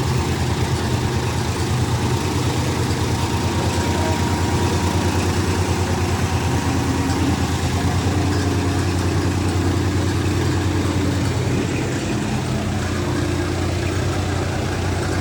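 Diesel tractor engine running steadily with an even beat, its sound easing slightly about twelve seconds in.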